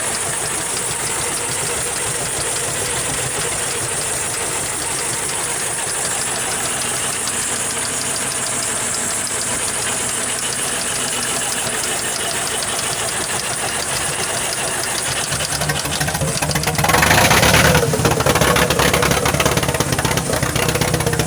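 A Ford farm tractor engine running steadily. About three-quarters of the way through it gets louder and deeper, with a brief surge, then keeps running at the deeper note.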